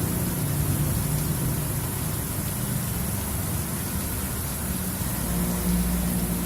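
Heavy rain hissing steadily, with a vehicle engine humming underneath that swells a little about five and a half seconds in.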